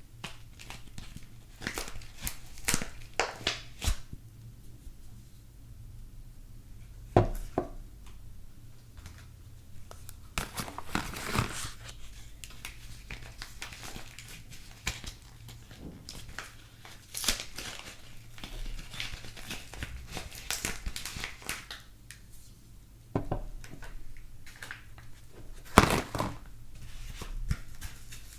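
Soap packaging being unwrapped by hand: wrapping crinkling and tearing in irregular bursts, with a few sharp knocks along the way.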